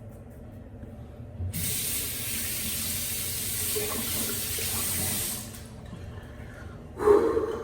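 Sink faucet running. The water starts about a second and a half in and is turned off about four seconds later. A short, louder sound comes near the end.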